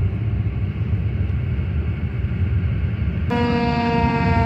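Fire truck engine rumbling, then about three seconds in an air horn blast starts abruptly, one loud steady tone that sags slightly in pitch.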